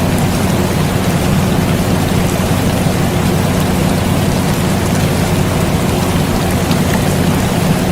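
Steady rain mixed with the constant low hum of an air conditioner, with a few faint drop ticks; the sound is even throughout.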